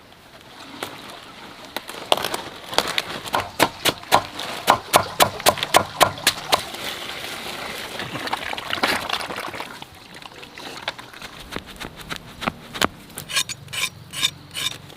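A run of sharp knocks or strokes, about two a second, lasting several seconds, over rustling, followed by a softer rustling stretch and a few scattered clicks near the end.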